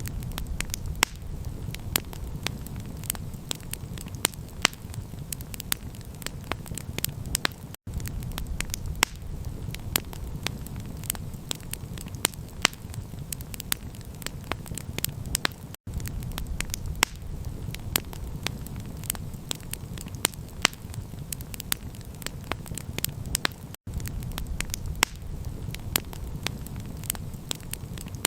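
Campfire crackling, with frequent sharp pops and snaps over a steady low rumble. The sound cuts out briefly about every eight seconds.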